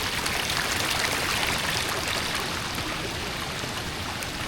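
Heavy rain and rushing storm runoff: a steady watery hiss scattered with the ticks of drops, easing slightly about halfway through.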